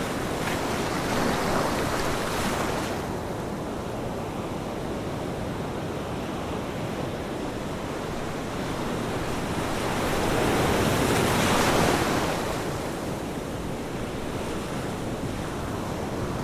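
Ocean waves breaking and washing onto a shore, with a steady wash of surf between them; one wave surges about a second in and a bigger one breaks about ten seconds in.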